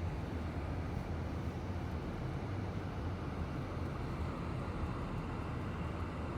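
A car driving on a snowy road: a steady low rumble of engine and tyre noise.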